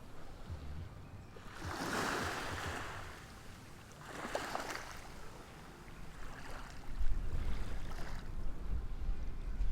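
Ocean waves washing onto the shore, each surge swelling and fading every two to three seconds. From about seven seconds in, low wind rumble on the microphone joins in and the whole gets louder.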